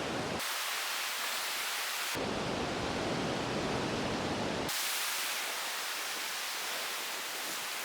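Steady rush of surf on a sandy beach mixed with wind noise. The deep part of the rush cuts out and comes back abruptly a few times.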